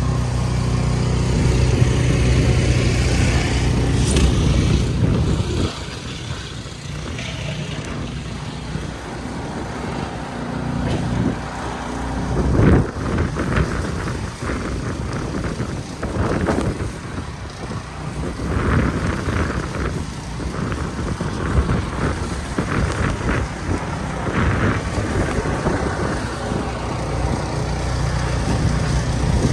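City street traffic: a vehicle engine runs close by for about the first five seconds, then falls away, and other vehicles keep passing.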